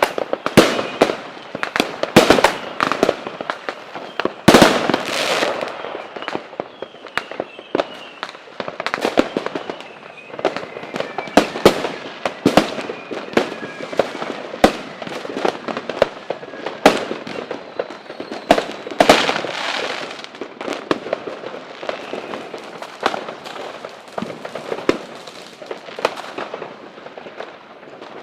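Fireworks display: a rapid, continuous run of bangs and crackling bursts, with the biggest boom about four and a half seconds in.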